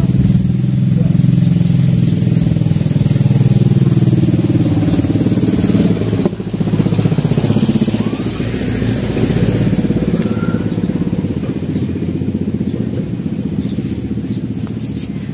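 A small engine running loudly, its pitch rising and falling, with a brief dip about six seconds in.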